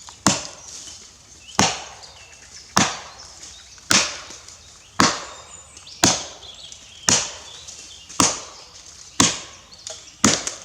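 Axe chopping into wood with steady, evenly paced strokes, about one a second, ten in all. Each blow is a sharp crack that dies away quickly.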